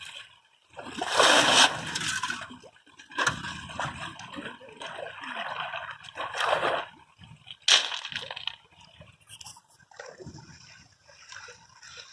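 Water splashing and sloshing in irregular heavy surges, with a sharp crack about eight seconds in.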